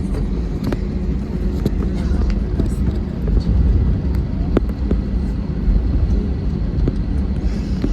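Deep, steady cabin rumble of a jet airliner rolling on the ground, with scattered short rattles and knocks from the cabin.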